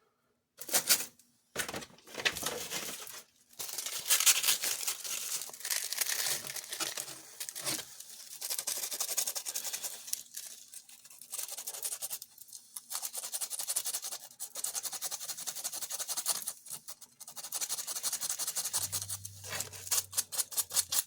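Contacts of a small toy switch being scraped clean: dry, scratchy scraping and rubbing in irregular runs with short pauses, a low hum joining in near the end.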